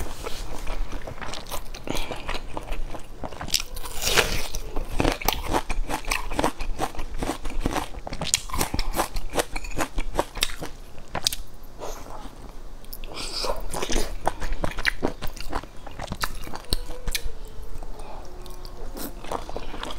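A person chewing and biting into large pan-fried dumplings close to the microphone, with a dense run of wet mouth clicks and crunches.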